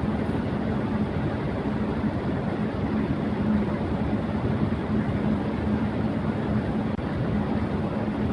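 Electric fan running at high speed: a steady rush of moving air with a steady low motor hum underneath.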